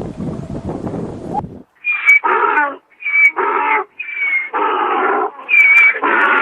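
An animal calling over and over, each call a short high whistled note followed at once by a harsher, lower sound, about once a second. Before the calls begin, a low rumbling background cuts off about a second and a half in.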